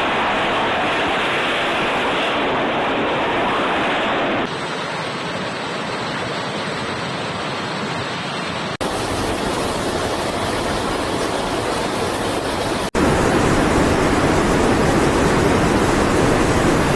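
Floodwater rushing as a steady, loud roar, heard across several spliced clips that cut abruptly from one to the next about every four seconds.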